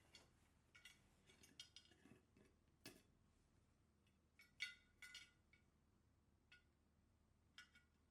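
Faint, scattered light clinks and clicks of small hard objects over a quiet room, with a few soft low knocks about two seconds in. The clearest clink comes about halfway through.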